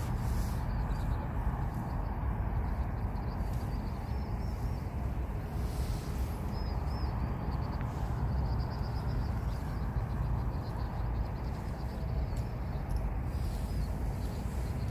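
Small birds giving quick runs of high, thin chirps again and again over a steady low rumble.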